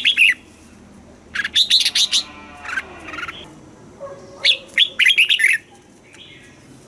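Red-whiskered bulbul singing: quick, bright whistled phrases of gliding notes, one ending just at the start, another about a second and a half in and a third about four and a half seconds in, with a softer buzzy stretch between them.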